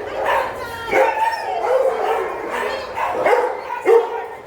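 Shelter dogs barking repeatedly in their kennels, six or seven barks across a few seconds.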